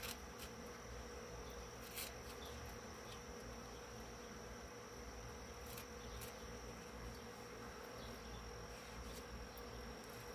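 Faint steady buzzing hum with a thin high whine over it, and a few light ticks, one about two seconds in and a pair around six seconds.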